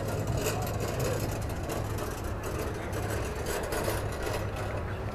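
A vehicle engine running steadily, a low even hum with no revving.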